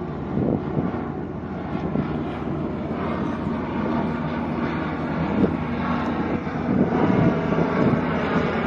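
Turboprop engines of a P-3 patrol aircraft flying over: a steady droning hum with several pitched tones that grows a little louder toward the end.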